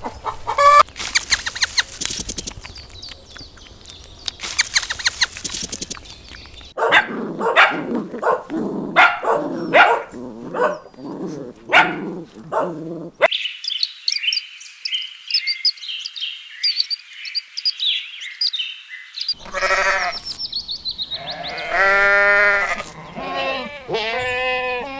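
A run of farm-animal sounds that changes abruptly several times: chickens clucking first, then a series of repeated animal calls about one a second, then high thin chirping, and finally drawn-out bleat-like calls with a bending pitch.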